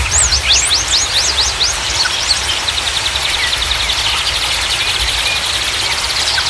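Songbirds chirping over the steady rush of flowing water: a quick run of sharp rising chirps in the first two seconds, then a fast, even trill that carries on to the end.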